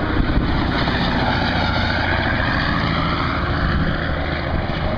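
Heavy truck traffic passing close by on the interstate: diesel engine drone and tyre noise, swelling and then easing off through the middle as a truck goes by.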